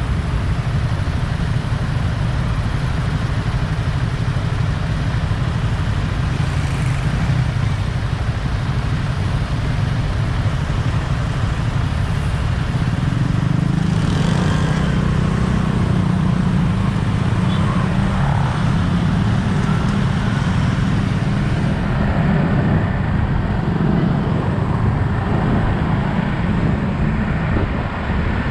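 Yamaha XSR 155 motorcycle's 155 cc single-cylinder engine running while riding, heavily mixed with wind rumble on the camera microphone and road traffic noise. The noise stays steady and loud throughout.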